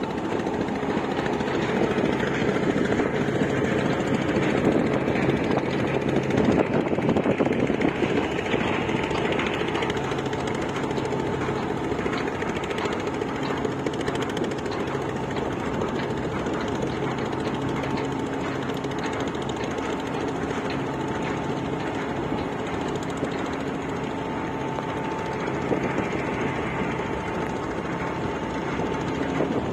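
River dredger's engine running steadily under load, with a fast, dense rattle and a steady whine over it.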